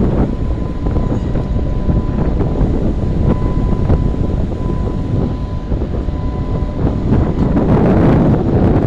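Strong gusting wind buffeting the microphone: a loud, deep rumble that swells and eases, loudest near the end.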